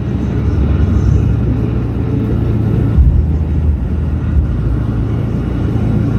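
Truck driving on a snowy road, heard from inside the cab: a steady low rumble of engine and tyres.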